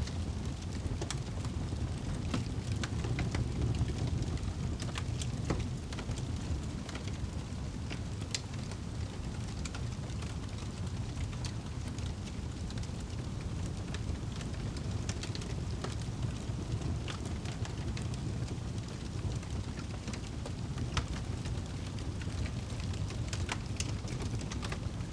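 Wood fire burning in a fireplace, crackling: irregular sharp pops and snaps scattered over a steady low rush of flames.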